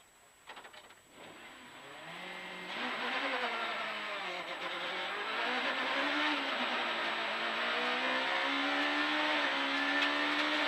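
Rally car engine heard from inside the cabin as the car pulls away from the start under hard acceleration, its pitch climbing and then dropping at each upshift, several times over. A few clicks come about half a second in, before the engine grows loud.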